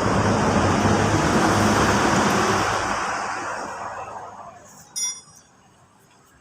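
Engine running steadily, then dying away over about a second and a half, followed by a single sharp metallic clink.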